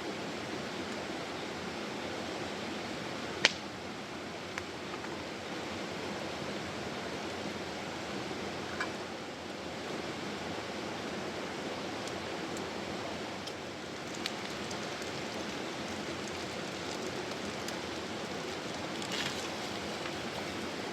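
Mountain stream rushing steadily, with a few sharp clicks over it, the loudest about three and a half seconds in.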